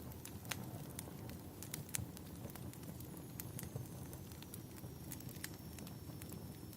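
Wood fire burning in a fireplace: a steady low rumble with irregular crackles and sharp pops.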